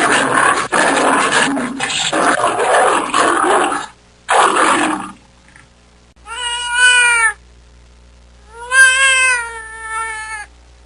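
A loud, rough animal roar that breaks off briefly and stops about five seconds in, followed by a cat meowing twice.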